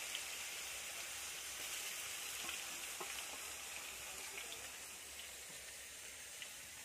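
Chopped garlic and ginger sizzling steadily in hot oil in a stainless steel kadai, with a few faint clicks.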